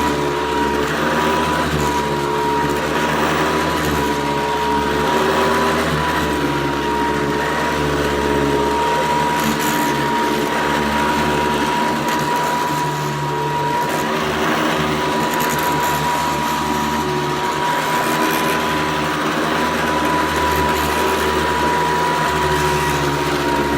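A 1990 Hoover Convertible 700 Heavy Duty upright vacuum cleaner running steadily: a constant motor hum with a high, steady whine on top.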